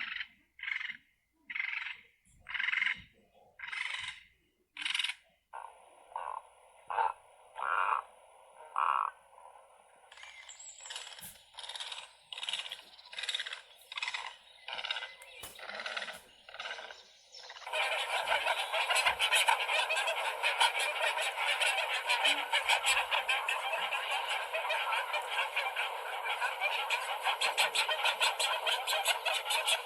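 Great egrets giving harsh, rasping croaks, a series of separate calls about two a second. About two-thirds of the way through, a dense, continuous din starts suddenly and is louder.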